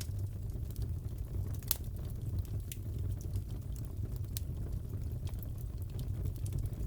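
Crackling fireplace: a steady low rumble of burning with irregular small pops and crackles, one sharper pop about two seconds in.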